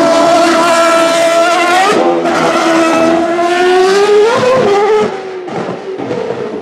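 Ferrari 150° Italia Formula One car's 2.4-litre V8 running at high revs, its pitch stepping with gear changes and climbing to a peak about four seconds in. About five seconds in it drops off sharply to a quieter, uneven sound as the throttle is lifted.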